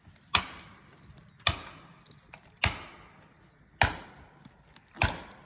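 Heavy blows struck into wood at a steady pace, five sharp strikes a little over a second apart, each with a short dying tail.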